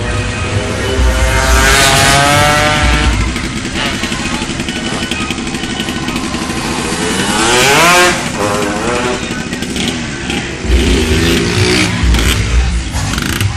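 Motorcycles racing past at full throttle, twice: the engine note climbs and then swings down as each bike goes by, about two seconds in and again about eight seconds in. Low rhythmic thumping sits under it near the start and near the end.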